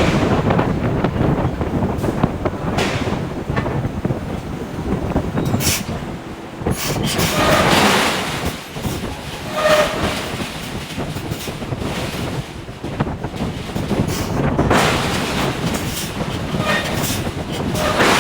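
Forge shop noise around a hydraulic forging hammer working hot steel: a steady heavy rumble with irregular metallic strikes and a few short squeals of metal.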